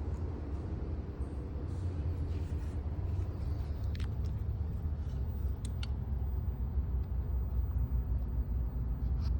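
Car engine running with a steady low rumble, a few faint clicks sounding over it.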